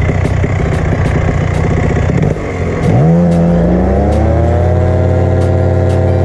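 Two-stroke paramotor engine ticking over unevenly, then revved up about three seconds in, the pitch rising and holding steady at high revs. It is a throttle blip to check for flooding after the carburettor mixture screws were adjusted for rich running.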